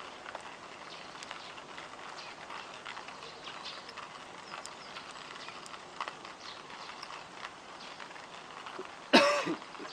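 Wood campfire crackling with small irregular pops, with faint bird chirps in the background. About nine seconds in, a short, loud voice-like cry stands out over the fire.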